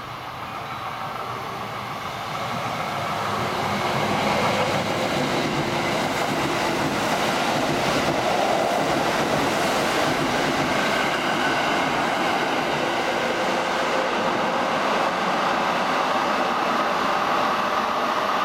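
Kintetsu 22000 series ACE and 12200 series limited-express electric train running through the station. The rush of its wheels and motors grows louder over the first few seconds as it approaches, then holds steady and loud as the cars go by.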